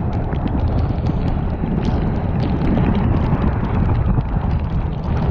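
Strong storm wind buffeting the microphone in a loud, steady low rumble, with many scattered sharp ticks.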